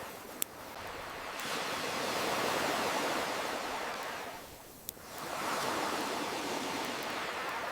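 Ocean waves washing in, swelling and ebbing twice, mixed with a campfire. Two sharp crackling pops from the fire, one about half a second in and one near five seconds.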